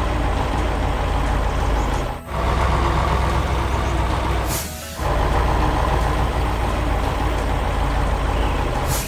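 Heavy truck engine running steadily, with two short air-brake hisses, one about halfway through and one near the end.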